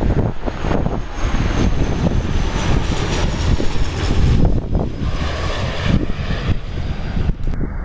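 Jet airliner passing close by, its engines running with a loud rumble and a thin high whine that falls slowly in pitch over the first few seconds.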